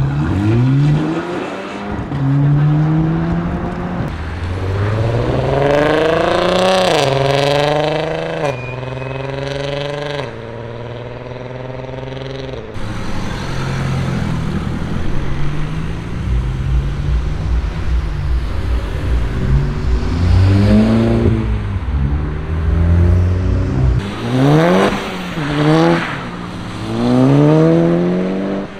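Tuned Volkswagen Group cars accelerating hard, engines revving up with the pitch climbing and dropping back at each gear change, in several separate pulls.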